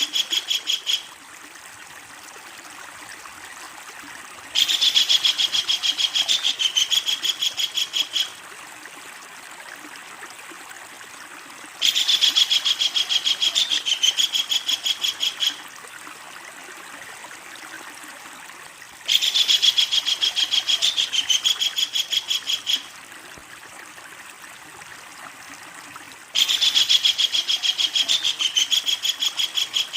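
Kingfisher giving its long, loud rattling call, a fast run of repeated notes lasting about three and a half seconds. The call is repeated four times at even intervals, the same call looped each time, with the end of another call right at the start. A faint steady background hiss fills the gaps between calls.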